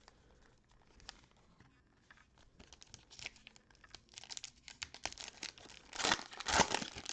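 Cellophane wrapper of a Panini Prizm basketball cello pack crinkling and being torn open, the crackling growing denser and loudest near the end.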